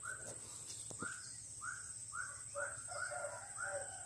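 A bird calling a series of short, arched notes, about two a second, over a steady high-pitched whine.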